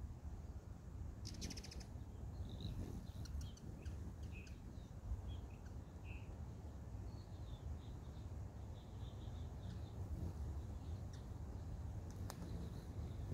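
Small birds giving short high chirps, with a quick rapid trill about a second in and a run of chirps in the middle, over a steady low outdoor rumble; a sharp click near the end.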